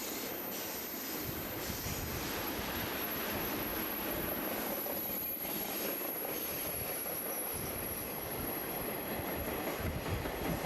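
A train rolling past on the rails: a steady, even rumble of wheels and cars with no pause.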